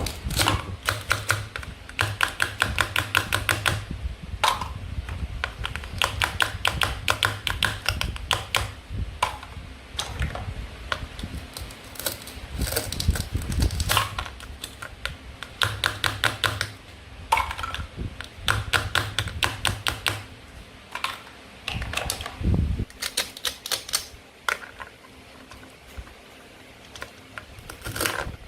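Toy play-food being cut and handled: repeated bursts of rapid, sharp plastic clicking and crackling, each lasting a second or two, with short pauses between them.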